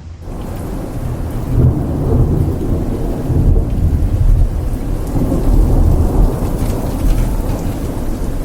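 Heavy rain pouring down, with a long low rumble of thunder rolling through it.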